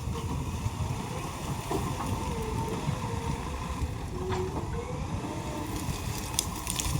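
JCB 3DX backhoe loader's diesel engine running steadily, with a faint tone that wavers up and down in pitch over the low rumble.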